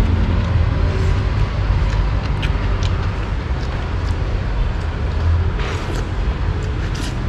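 Steady low rumble of background noise with a few faint light clicks scattered through it.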